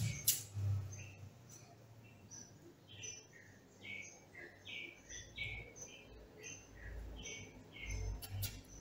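A small bird chirping in the background: many short, high chirps, each falling slightly in pitch, at irregular intervals. Under them are faint low thuds and rubs as the wooden mandala cut-out is set down and lined up on its base.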